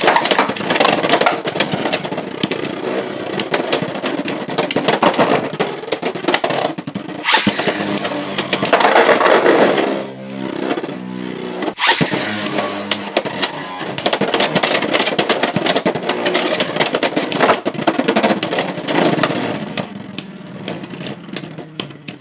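Beyblade X spinning tops launched and battling in a plastic stadium: rapid clattering hits and a grinding rattle, over more than one round.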